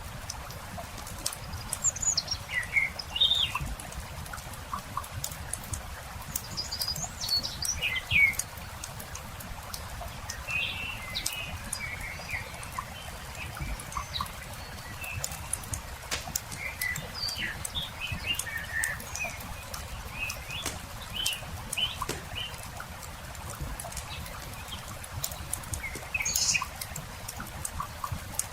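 Songbirds chirping in scattered short phrases over the light crackle of a wood campfire, with a steady low rumble underneath.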